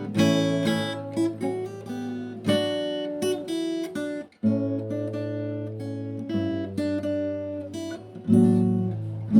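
Background music of an acoustic guitar playing strummed and picked chords, with a brief break about four seconds in.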